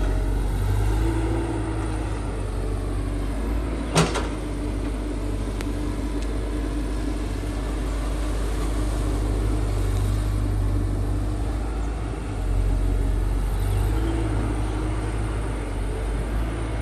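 Diesel engine of heavy earthmoving machinery running steadily, with a single sharp metallic knock about four seconds in.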